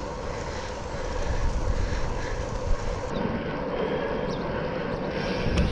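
Steady rushing noise of a bicycle being ridden on a wet road: wind on the microphone and tyre hiss, with a low rumble underneath.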